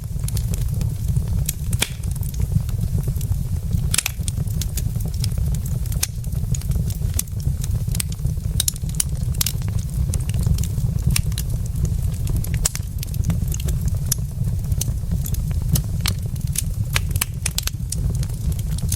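Wood fire burning in a fireplace, with many sharp, irregular crackles and pops from the logs over a steady low rumble.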